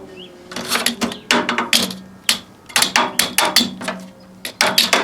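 Microwave oven running with a steady low hum while the poked emu egg inside gives off sharp, irregular pops and clicks, several a second at times.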